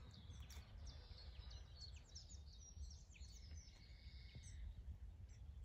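Faint birdsong from wild birds: scattered short, high chirps and whistles over a low steady background rumble.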